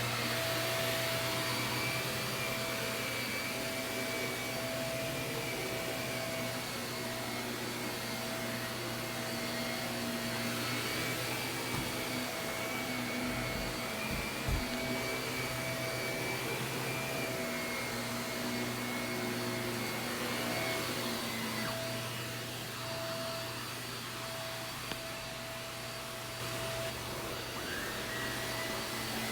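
Shark vacuum cleaner running steadily over carpet, its motor whine wavering slightly in pitch, with a brief knock about halfway through.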